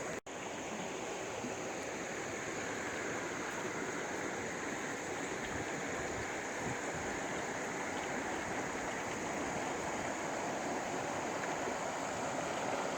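Steady rushing of water, even and unbroken, with a brief cut-out just after the start.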